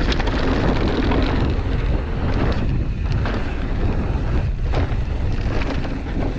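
Wind buffeting the microphone of a camera riding along on a Pivot Switchblade mountain bike going fast downhill, over a steady rumble of tyres on the dirt trail. Scattered clicks and rattles from the bike come through as it runs over rough ground.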